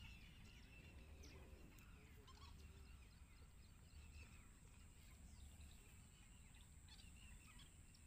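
Faint, scattered short bird chirps over a low rumble, with a thin steady high whine.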